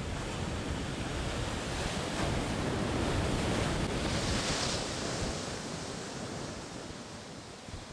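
Heavy ocean surf crashing and rushing, with wind. The rush swells, peaks in a hissing wash about four seconds in, then slowly fades.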